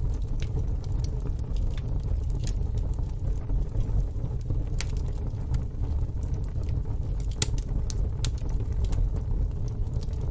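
Fire burning in a fire pit: scattered sharp crackles and pops over a steady low rumble.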